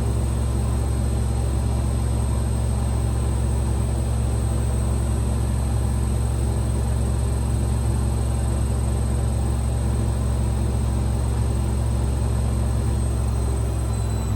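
AEG Lavamat Exclusiv 6469AFL washing machine spinning at high speed, a steady loud hum with a thin high whine. Near the end the whine dips slightly in pitch as the drum begins to slow.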